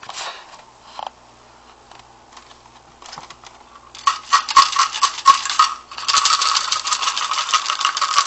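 Cat-treat container shaken hard, its treats rattling in two long bursts, the second starting about six seconds in. A couple of short rustles come before them.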